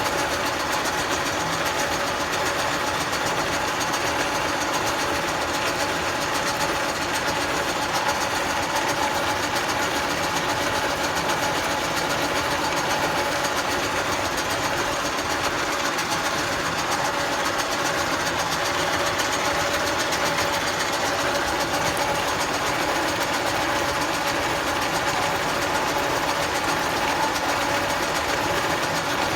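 Milling machine cutting a keyway into a crankshaft: the spindle and cutter run steadily under load with a fast, even chatter of the cutting teeth and a couple of steady tones.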